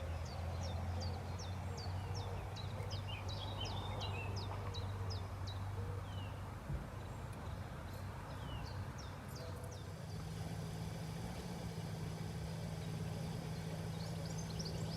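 A small bird singing a rapid run of short, high, falling notes for the first six seconds, with a few more notes later. Under it runs a steady low motor hum.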